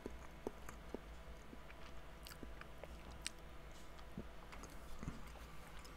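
A person quietly chewing a soft, moist matcha cake, with faint scattered mouth clicks.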